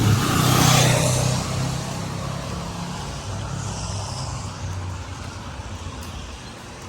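A motor vehicle's engine running, loudest about a second in, then easing to a steady lower run.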